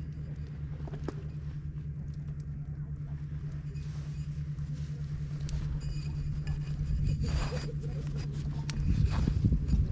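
A steady low engine hum over a deep rumble, slowly getting louder, with a few short knocks and rustles in the last few seconds.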